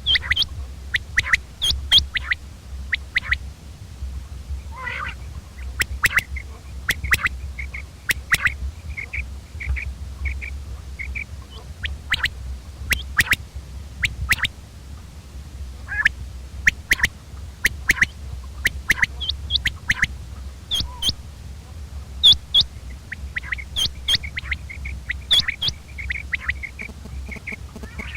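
Common quail calling over and over, short sharp notes in quick clusters, over a steady low hum.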